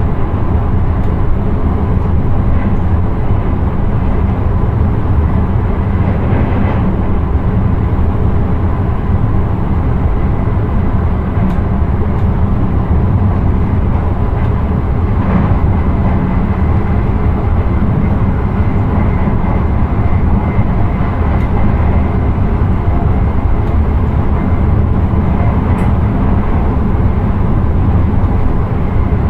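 Intercity train running steadily on the line, heard from the driver's cab: a continuous low rumble with an even rushing noise and a faint steady whine above it.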